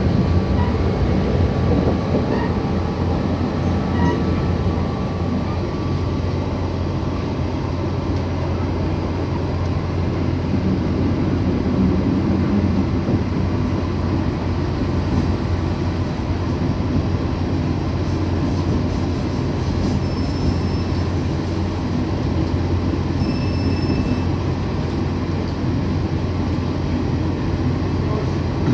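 Inside a moving local train: the steady rumble and low hum of the train running along the track, with a couple of brief high-pitched squeals past the halfway point.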